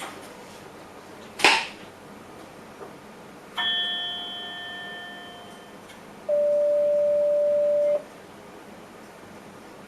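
Train cab warning signals: a chime rings out and fades over about two seconds, then a steady electronic tone sounds for under two seconds. A short burst of hiss comes about a second and a half in, over a steady background hiss.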